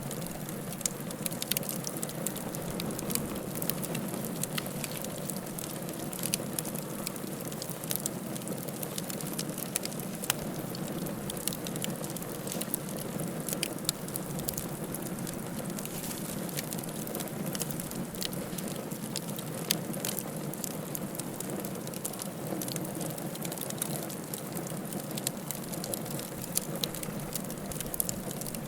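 Wood fire crackling in a fireplace: a steady low rush of burning, with many small sharp pops and snaps scattered irregularly throughout.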